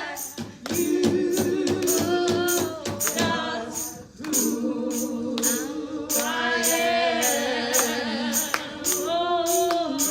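Gospel praise singing with a steady percussion beat of about three strokes a second.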